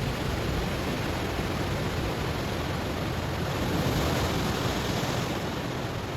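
Ocean surf washing onto a stony shore: a steady rush of waves that swells louder about four seconds in as a wave breaks.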